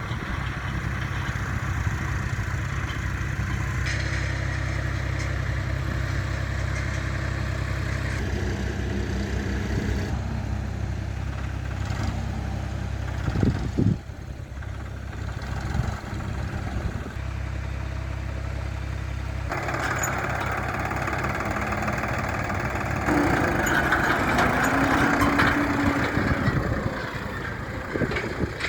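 Swaraj 969 FE diesel tractor engine running steadily, with a brief loud knock about halfway through and a louder stretch near the end.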